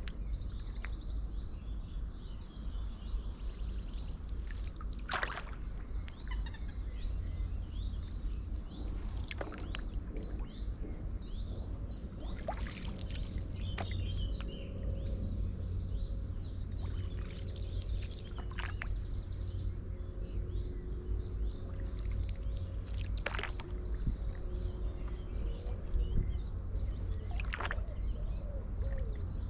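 Water splashing and trickling off a stand-up paddleboard paddle every few seconds over a steady low wind rumble on the microphone, with small birds chirping.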